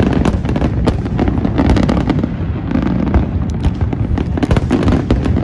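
Fireworks exploding in rapid succession: a dense barrage of booms and sharp crackles, overlapping with no pause.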